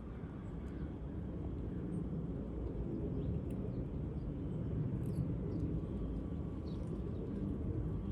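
Outdoor ambience: a steady low rumble, slowly growing a little louder, with faint short high chirps scattered through it.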